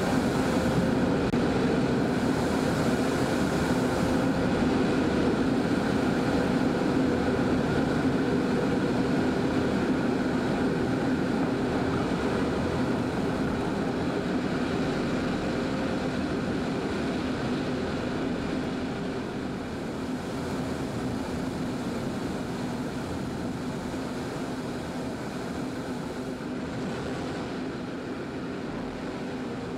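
Propeller engine of a firefighting airplane, a steady drone that slowly fades away.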